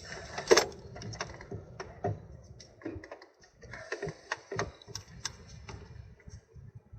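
Irregular clicks and knocks of hand tools and metal parts being handled while a gearbox actuator is unbolted, the loudest knock about half a second in.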